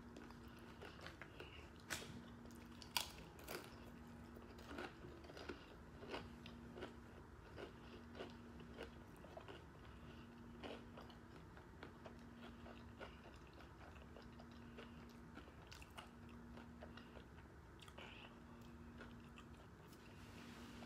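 Close-up chewing and crunching of a taco: a string of crisp crunches, thickest in the first ten seconds and thinning out after.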